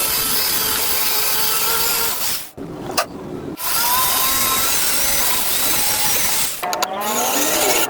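Power drill running in bursts while installing screws in wood. It pauses for about a second a third of the way in and briefly again near the end.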